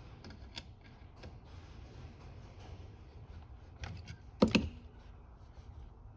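Scattered small metal clicks of carburetor parts and hand tools being handled during reassembly, with one louder clank about four and a half seconds in that rings briefly.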